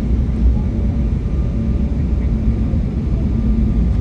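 Cabin noise inside an Embraer E175 regional jet: a steady low rumble of its GE CF34 turbofan engines and airflow, with a faint steady hum and no sudden events.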